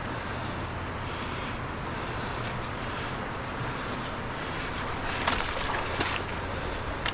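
Steady rushing of fast-flowing river water, with a few sharp knocks about five to six seconds in.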